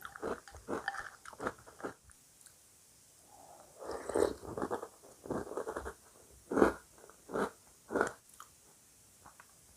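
A person chewing and crunching cereal close to the microphone. There is a short quiet gap after about two seconds, then more chewing and a few sharp, loud crunches near the end.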